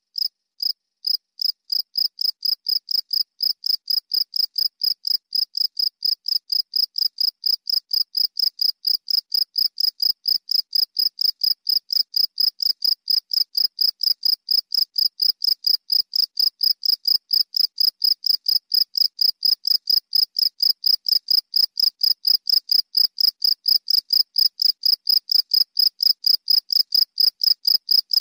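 Cricket chirping in a steady, even rhythm of short high-pitched chirps, about three a second, a little slower and softer in the first couple of seconds.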